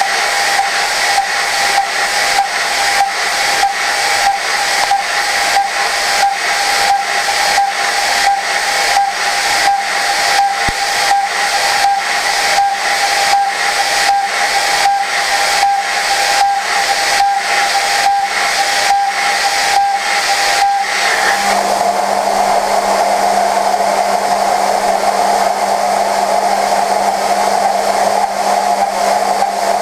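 CNC vertical machining center milling prehardened 4140 steel: a steady high cutting tone over a loud hiss, pulsing about twice a second. About two-thirds of the way through the sound changes to a lower, steadier tone with a low hum and no pulsing.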